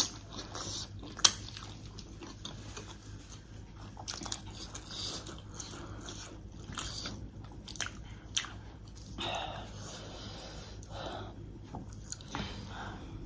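A person chewing and biting food close to the microphone: irregular small wet clicks and smacks, with two sharper clicks in the first second and a half.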